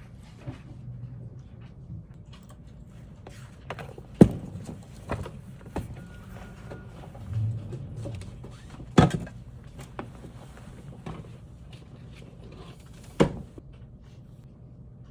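Scattered light clicks and knocks with three louder thumps, about four, nine and thirteen seconds in, as of objects being handled and set down.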